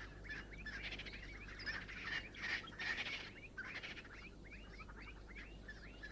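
Francolins calling: a run of short, hooked call notes repeated several times a second, a little louder about two to three seconds in.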